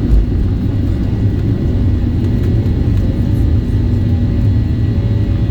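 Boeing 737-800's CFM56-7B jet engines under takeoff power, heard inside the cabin as a loud, steady low rumble with faint steady tones above it.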